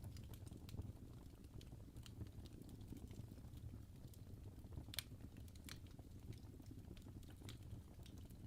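Faint crackling fire: irregular sharp pops and snaps over a low, steady rumble.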